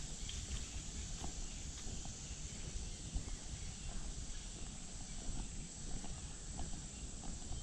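Footsteps walking along a park path, a scatter of small irregular steps and scuffs over a steady low rumble on the microphone.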